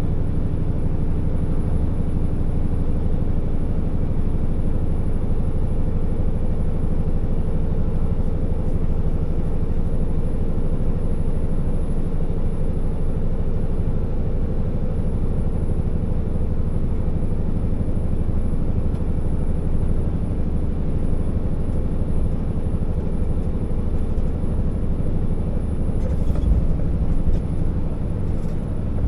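Scania R650 timber truck's 16-litre V8 diesel running steadily while driving, with road noise. A few knocks and a low thump near the end.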